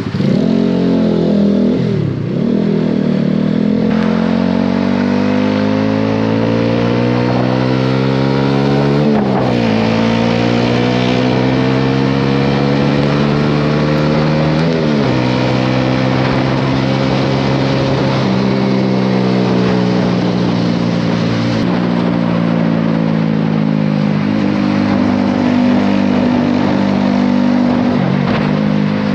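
Honda CB125R's single-cylinder four-stroke engine through a LeoVince LV10 exhaust, heard on the move. It accelerates with the pitch rising and dropping sharply at gear changes about 2, 9 and 15 seconds in, then holds a steady cruise with small dips.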